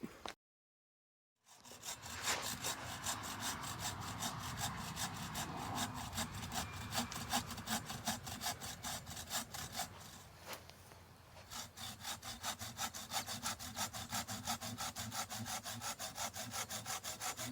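Hand saw cutting through a tree branch with rapid, even back-and-forth strokes, several a second. It starts after a moment of dead silence and pauses briefly about two-thirds of the way through.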